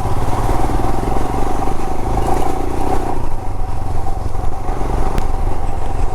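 Royal Enfield Himalayan's 411 cc single-cylinder engine running at low speed, with an even low pulse from the single cylinder and a single click about five seconds in.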